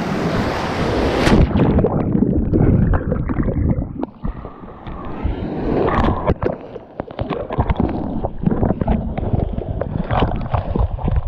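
Ocean water washing over a waterproof action camera. Open-air surf and wind cut off suddenly about a second in and give way to a muffled underwater sound: sloshing and gurgling with scattered small knocks.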